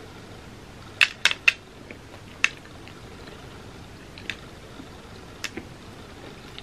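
Close-miked chewing of a mouthful of food, with a few sharp, crisp clicks about a second in and fainter mouth clicks later.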